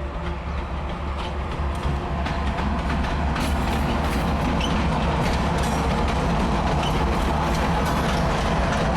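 Diesel freight train passing: the low locomotive drone grows louder over the first couple of seconds, then the wagons' wheels clatter over the rail joints in a run of sharp clicks.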